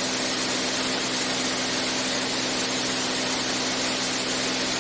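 Steady drone of a Beechcraft A36 Bonanza's six-cylinder piston engine and propeller in cruise, heard in the cockpit as a constant hum over an even rushing hiss.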